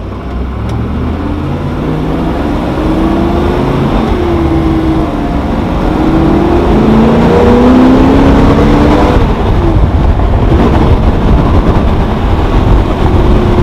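Stroked 429 big-block V8 of a 1969 Boss 429 Mustang accelerating hard, heard from inside the cabin. The engine note climbs in pitch and drops back at an upshift about four seconds in, climbs again to a second upshift about nine seconds in, then holds steady. It grows louder until that second shift.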